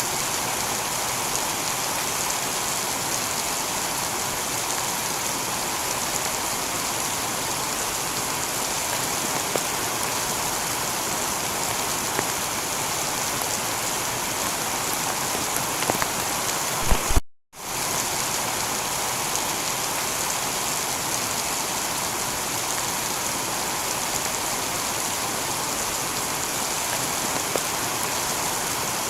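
Heavy rain falling steadily on a tiled roof, with scattered sharper drop ticks. A few louder knocks come about 17 seconds in, then the sound cuts out for a split second and resumes unchanged.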